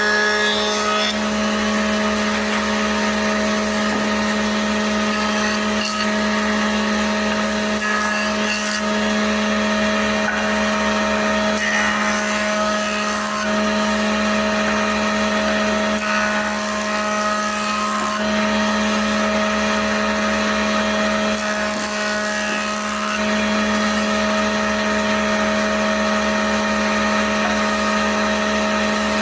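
An electric power tool's motor running steadily with a constant hum, its level dipping slightly a few times as the load changes.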